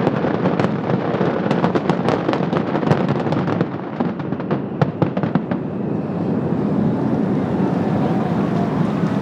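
Fireworks finale: a dense run of rapid cracks and bangs from aerial shells that thins out and stops about five and a half seconds in. It is followed by a steady background of crowd noise with voices.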